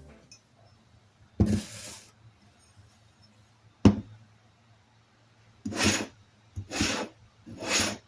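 Hand work on a workbench: a short rasp, a sharp knock about four seconds in, then three short scraping strokes near the end.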